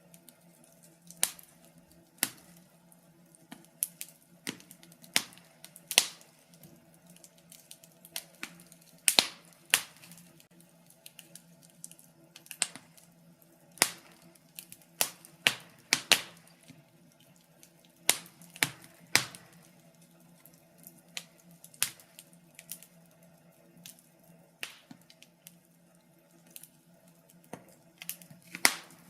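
Wood fire crackling in a fireplace: irregular sharp pops and snaps, one to a few a second, over a faint steady low hum.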